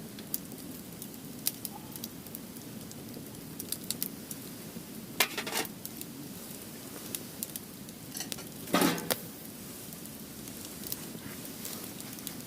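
Firewood burning, crackling steadily with scattered sharp pops, and two louder bursts of crackling about five and nine seconds in.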